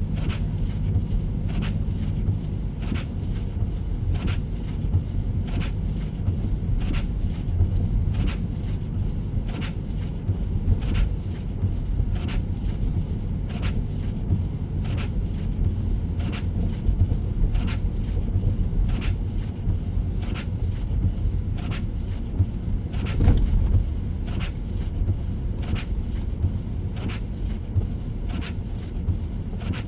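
Car driving at road speed, heard from inside the cabin: a steady low road and engine rumble, with a sharp tick about once a second and one louder thump near the end.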